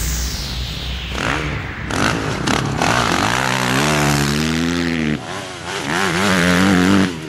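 Four-stroke single-cylinder motocross bike engine, a Yamaha YZ250F, revving with its pitch rising and falling. It revs up again in the last couple of seconds, then drops off near the end.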